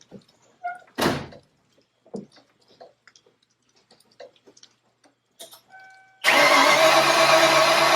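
1995 Ford Mustang's 5.0 V8 cranking steadily on the starter motor for a compression test on its last cylinder, starting suddenly about six seconds in. A sharp knock comes about a second in, and a short beep just before the cranking.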